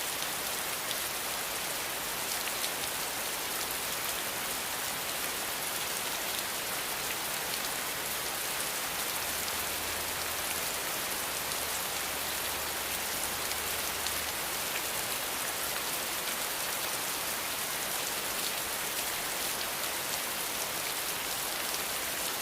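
Steady, even rainfall, a dense hiss of drops with fine scattered patter.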